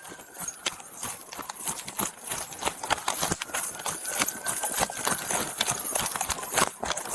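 Rapid, irregular knocking and clattering of running footsteps and jostled gear.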